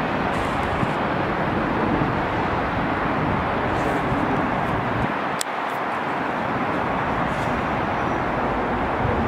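Steady rumbling noise of a train running along the tracks, with one sharp click about five and a half seconds in.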